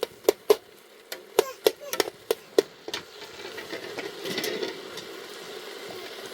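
About ten sharp knocks in quick, uneven succession over the first three seconds, then a steady rushing noise.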